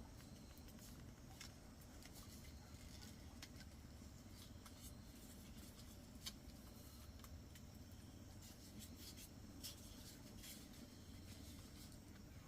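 Near silence: a faint low background hum with scattered small clicks and ticks, two of them a little sharper about six and ten seconds in.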